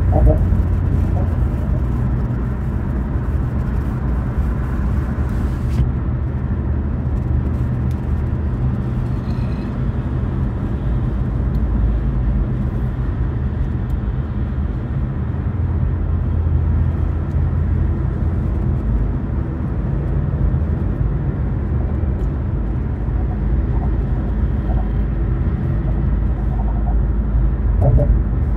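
Infiniti Q50 Red Sport 400 driving at a steady speed: a continuous low rumble of engine and road noise. A fainter high hiss drops away about six seconds in.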